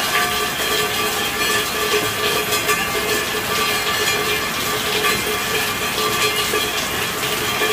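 Steady rainfall: a dense, even patter of drops with a constant hiss, with a few faint steady tones underneath.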